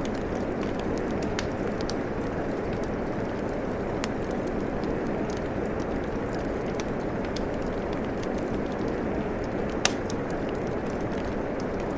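Steady rain with a wood fire crackling: a constant rushing hiss of rain, sprinkled with small sharp pops from the fire, one louder pop about ten seconds in.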